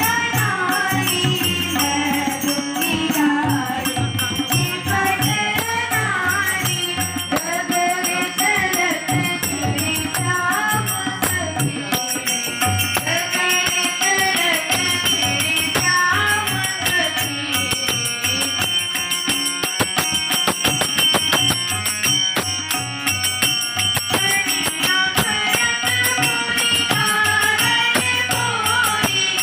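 A Hindi devotional bhajan sung by young girls, over a steady drum beat and rattling hand percussion.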